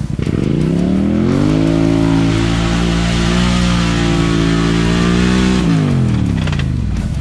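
ATV engine revving up and held at high revs for about four seconds with its wheels spinning in deep mud, then dropping back off near the end.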